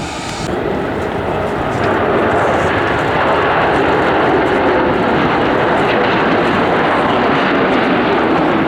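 Airliner engine noise, loud and steady, building over the first two seconds as the aircraft comes close, with a faint steady whine running through it. The sound changes abruptly about half a second in.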